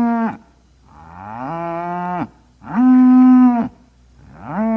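Cow mooing: the end of one moo, then three more long moos about a second each, the second and the last sliding up in pitch as they begin.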